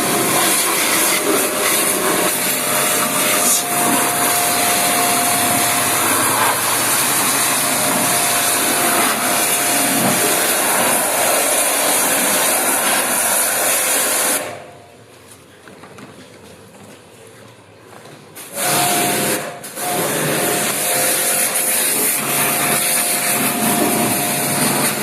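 An electric cleaning machine running with a loud hiss over a steady motor whine. It stops after about fourteen seconds and starts again about four seconds later, cutting out briefly just after restarting.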